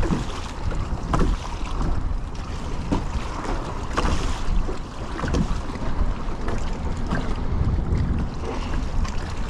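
Wind buffeting the microphone with a steady rumble, over water splashing and lapping against a kayak in short bursts every second or so.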